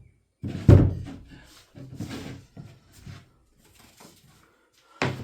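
Wooden pieces and tools handled on a workbench: a sharp knock a little under a second in, then a few softer knocks and clatters.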